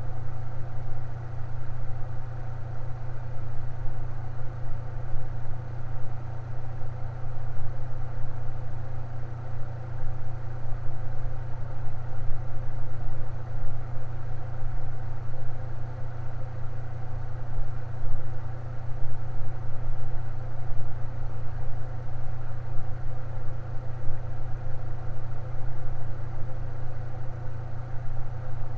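Electric fan running steadily: an unchanging low motor hum with a few fainter steady tones above it and a soft rush of air.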